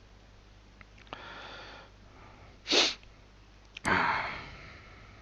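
A man sniffs sharply and then sneezes about four seconds in. The sneeze is the loudest sound and fades over about a second.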